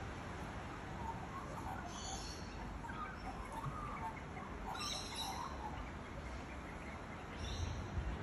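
Small birds chirping: three short, high calls about two, five and seven and a half seconds in, over a steady low outdoor hum.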